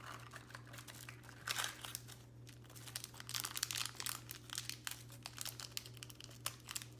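Packaging crinkling and rustling as a surprise toy box is opened and unwrapped by hand, in irregular bursts of crackles with a louder spell about a second and a half in and another around the middle.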